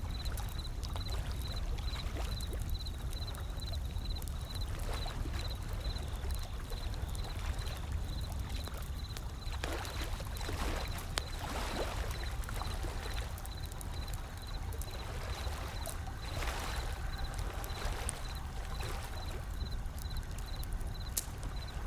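Wood fire crackling with scattered sharp pops over a steady low rumble of ocean surf, with louder washes of water about ten seconds in and again around sixteen seconds.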